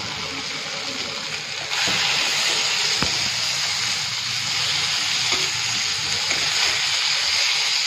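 Sliced steamed fara (rice dumplings) sizzling as they fry in oil in a kadhai. A steel spatula stirs and scrapes them, with an occasional sharp tap on the pan. The sizzle gets louder about two seconds in.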